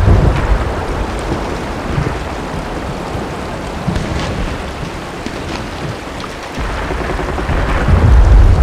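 Steady heavy rain with a deep rumble. The rumble fades early on, then builds again about two-thirds of the way through and is loudest near the end.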